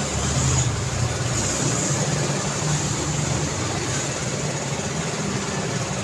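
Steady daytime road traffic: engines of passing vehicles humming low under a constant wash of tyre and road noise.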